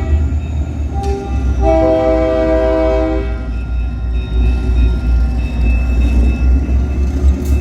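Freight train's locomotive air horn: a short blast about a second in, then a longer blast of nearly two seconds, over the steady low rumble of the passing train.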